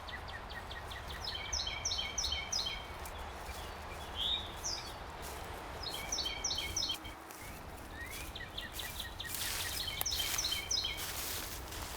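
A songbird singing three short phrases of quick, repeated high notes, with a few single slurred notes between them, over a steady low outdoor rush. A louder hiss swells briefly near the end.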